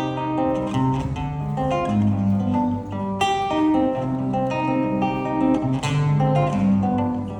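Acoustic guitar playing an instrumental passage, picked and strummed notes over a moving bass line.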